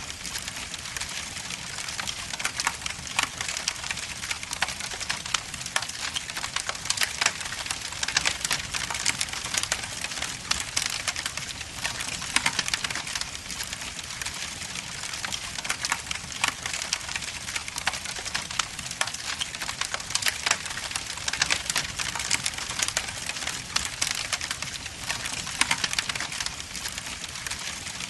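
Wood logs burning in a fireplace, crackling and popping irregularly over a steady hiss.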